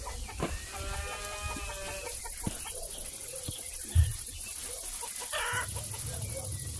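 Domestic chicken calling: one drawn-out call about a second in and a shorter call near the end. A single low thump about four seconds in is the loudest sound.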